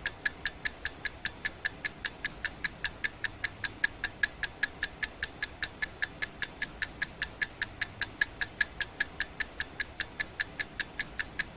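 Clock ticking steadily, about four ticks a second, stopping suddenly at the end.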